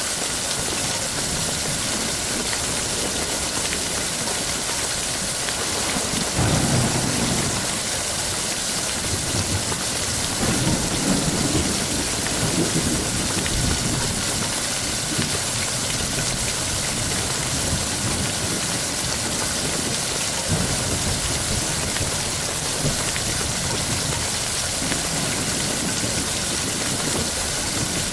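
Heavy rain falling steadily, with low rolls of thunder rumbling about six seconds in and again from about ten to thirteen seconds.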